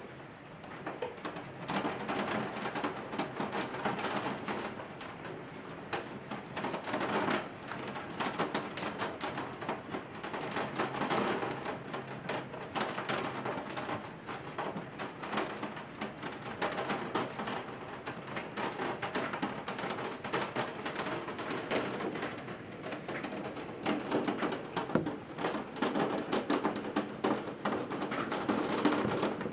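Rain falling: a dense patter of drops that swells and eases.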